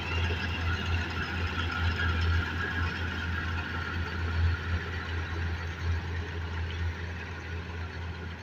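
Combine harvester running steadily while harvesting wheat: a constant engine drone with a strong low hum and machinery noise above it.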